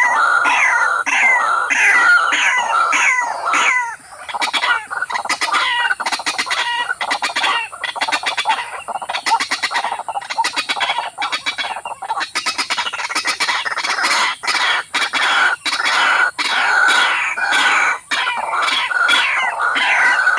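A rail calling loudly and repeatedly: short falling calls about two a second. About four seconds in they give way to a rapid clatter of clicking notes, and the falling calls return for the last third.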